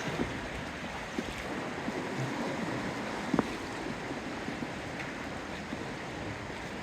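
Steady outdoor seaside ambience: wind on the microphone and water lapping along a bay shore, with scattered small clicks and one sharper knock about three and a half seconds in.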